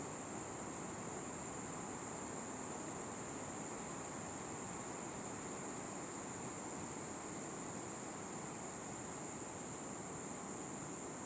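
Steady, high-pitched drone of a tropical insect chorus over a low, even hiss.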